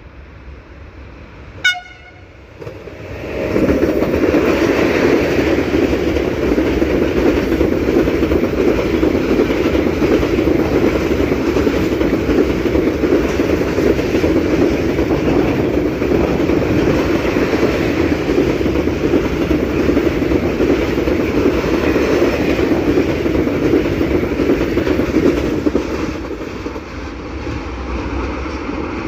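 A train gives a very short horn toot, then passes close by. The loud, steady rumble and clatter of its wheels on the rails builds up within a second and runs for more than twenty seconds before easing off near the end.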